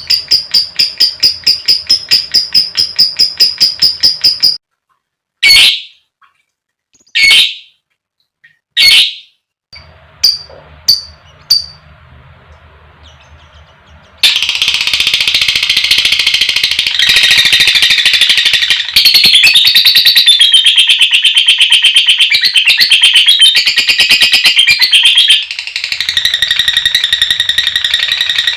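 Lovebird calling: a fast string of sharp high chirps, then three single loud calls and a few short chirps, then a long, dense, unbroken chattering trill (the lovebird's 'ngekek') from about halfway through, softening slightly near the end.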